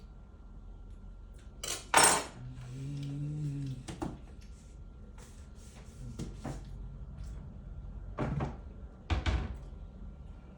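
A series of knocks and clatters, like objects being handled and set down: the loudest knock about two seconds in, lighter clicks in the middle and two more thumps near the end. A short wavering voice-like hum sounds just after the first knock.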